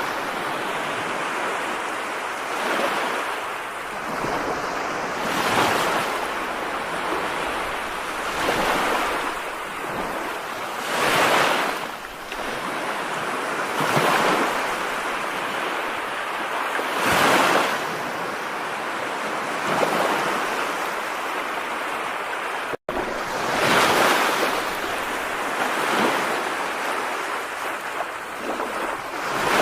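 Steady rush of heavy rain with wind, swelling in gusts every two to three seconds. It cuts out for an instant about two-thirds of the way through.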